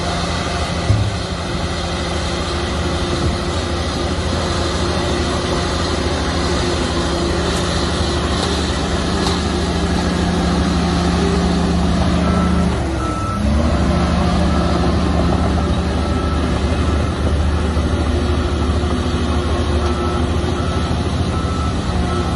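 Heavy diesel earthmoving machinery running steadily under load. About halfway through the engine note dips and climbs back. From then a reversing alarm beeps repeatedly, on and off.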